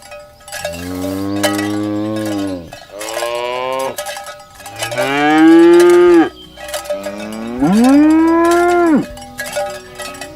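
Cattle mooing: four long moos one after another, the last two loudest, rising in pitch, holding, then dropping away at the end. Cowbells clink throughout.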